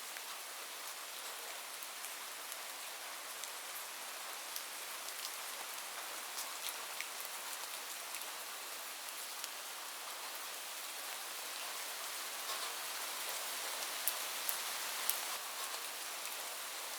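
Steady rain falling on a roof: an even hiss with scattered sharp drop ticks, getting a little heavier in the second half.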